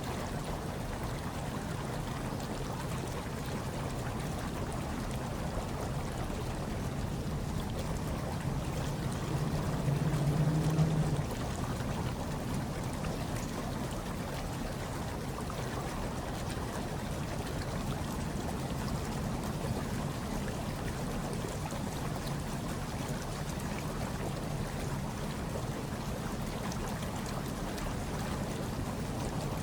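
Hot tub water churning and bubbling steadily, with a low rumble under the water noise. About ten seconds in it swells louder for a second or so, then settles back.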